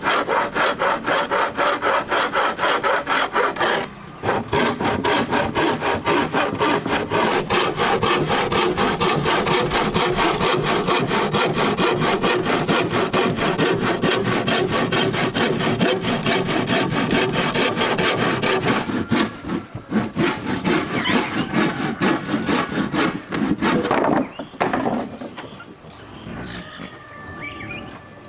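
Hand saw cutting through wood in rapid, even back-and-forth strokes, with short pauses about four seconds in and again about two-thirds through, and stopping near the end.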